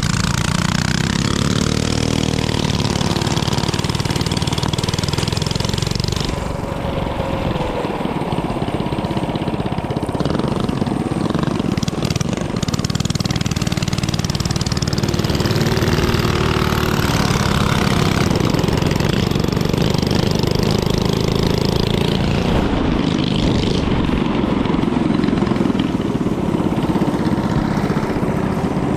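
Small mini bike engine running hard during a race, its pitch rising and falling a few times as the throttle is worked.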